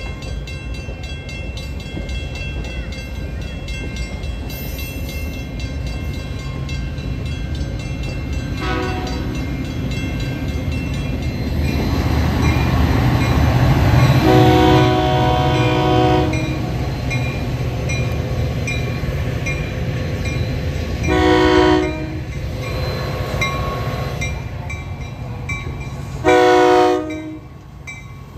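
A passing train rumbles steadily, loudest about twelve to fifteen seconds in. Its multi-note air horn sounds four times: a faint short blast, a long blast, then two short blasts.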